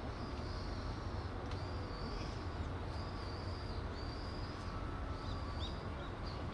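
Outdoor harbour ambience: a steady low rumble with a series of thin, high chirping calls from small birds repeating every second or so.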